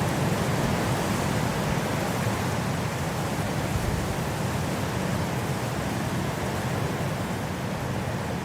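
Steady wind noise, an even rush with most of its weight low in pitch, easing slightly in level toward the end.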